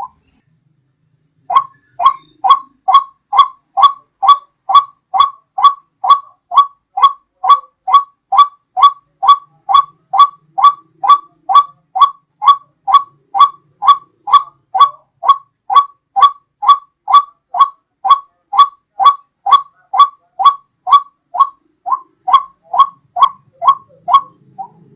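White-breasted waterhen (ruak-ruak) calling over and over, a rhythmic run of short notes at about two a second. It comes in after a brief pause and keeps up an unbroken, even rhythm.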